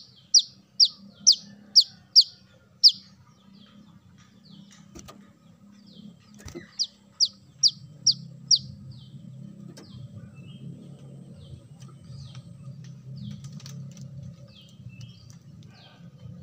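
Brown-throated sunbird calling. It gives a run of sharp, high, downward-slurred notes about two a second, then a second run about seven seconds in, followed by fainter scattered chirps over a low steady hum.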